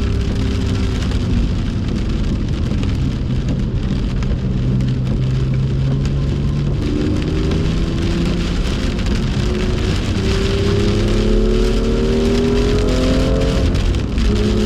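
BMW M2's turbocharged straight-six engine heard onboard. It runs at low, steady revs for several seconds, then accelerates with a steadily rising pitch and drops briefly near the end before rising again. Heavy rain hisses throughout.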